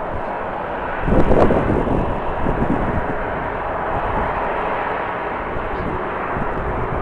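Steady jet airliner engine noise mixed with strong wind buffeting the microphone, with a louder gust about a second in.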